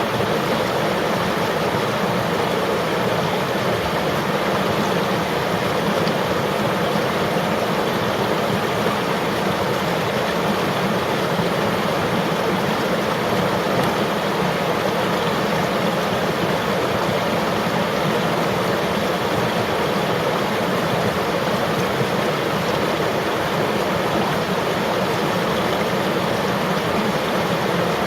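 River water flowing steadily over rocks, an even rushing and gurgling that does not change.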